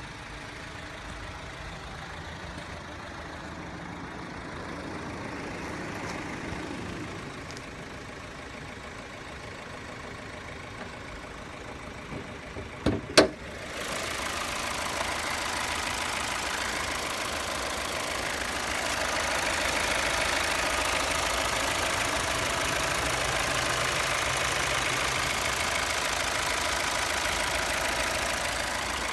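Mazda CX-5's 2.2-litre SKYACTIV-D four-cylinder diesel engine running at idle with a steady diesel clatter. About halfway through come two or three sharp knocks, after which the engine sounds louder and brighter.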